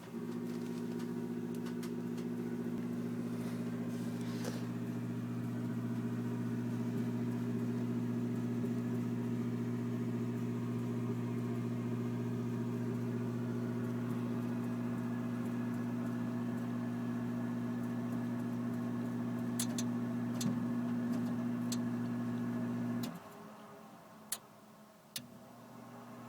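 Furnace running with a steady mechanical hum that cuts off abruptly near the end, followed by a couple of sharp clicks and the hum starting up again about two seconds later, more quietly: the furnace short cycling.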